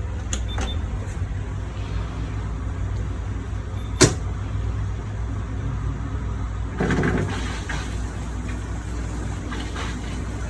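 Siemens front-loading washing machine's drain pump running with a steady low hum as it pumps the water out, with a sharp click about four seconds in.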